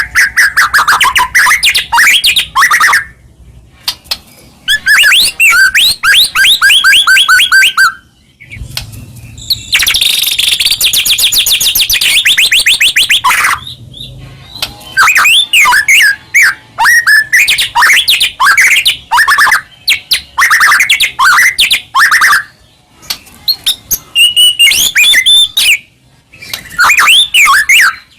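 White-rumped shama (murai batu) singing loud, varied phrases of whistles and quick notes with short pauses between them, including a fast, dense trill a third of the way in. It is a full, continuous song of the kind used to goad other shamas into singing.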